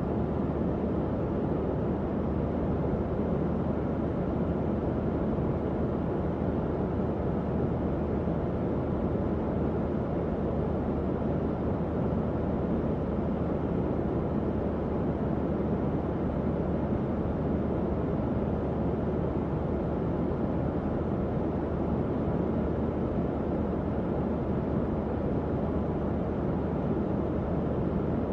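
Tower fan running steadily: an even, low-pitched rush of moving air with a faint steady motor hum underneath.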